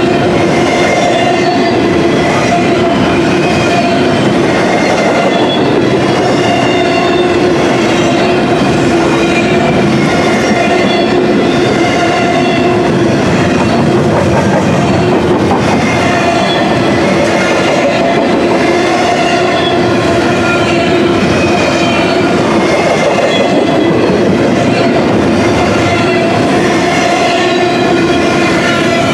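Double-stack container well cars of a freight train rolling past close by. Their steel wheels run loud and steady on the rails, with a wavering ringing squeal from the wheels.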